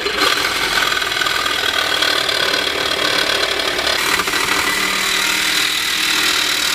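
Reciprocating saw (Sawzall) cutting through a rusty steel exhaust pipe: a loud, steady, harsh running of the blade through metal.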